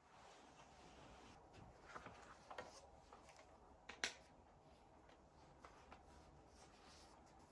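Near silence: room tone with a few faint handling taps and clicks, the sharpest about four seconds in.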